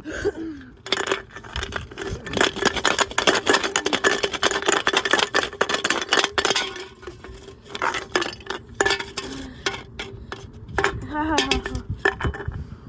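Washing machine drum turning with a 6-litre water bottle inside, the bottle clattering and banging against the drum in rapid, dense hits over a steady machine hum. The hits thin out in the second half.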